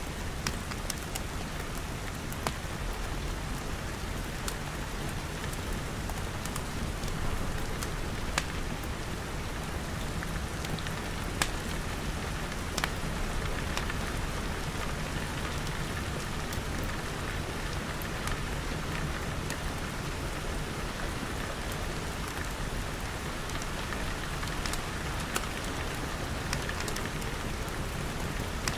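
Steady rain falling on glass, with scattered sharp clicks throughout.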